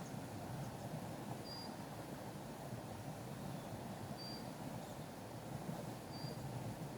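Outdoor ambience: a steady low rushing noise, with a short high-pitched note repeating about every two to three seconds, three times.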